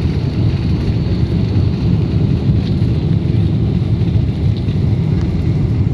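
Boeing 747-400 jet noise: a loud, steady low rumble with no change in pitch.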